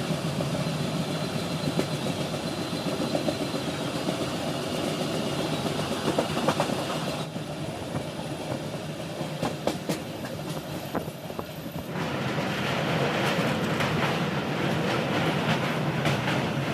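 Passenger express train running on the track: a steady running noise from the coach with scattered wheel clicks over the rails. The sound changes character abruptly twice, about halfway through and again about two-thirds through.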